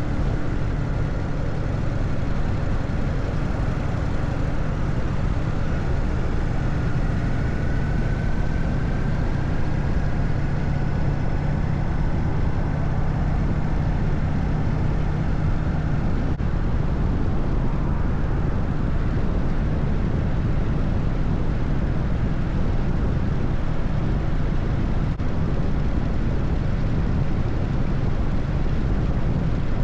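Harley-Davidson Evolution air-cooled V-twin of an FXSTS Springer Softail running steadily at highway speed, a constant low rumble mixed with road and rushing-air noise.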